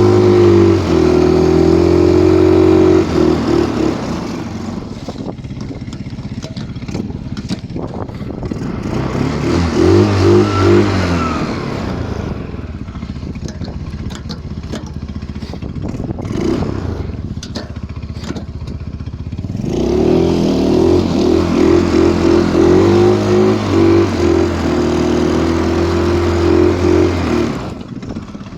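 Stels Kapitan Long snowmobile engine pulling through deep snow. It revs hard three times, at the start, briefly about a third of the way in, and again for several seconds near the end, dropping back to a lower note in between.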